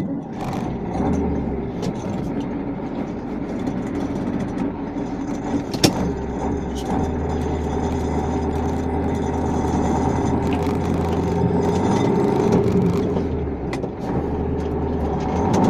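KAMAZ truck's diesel engine running steadily, with a single sharp click about six seconds in.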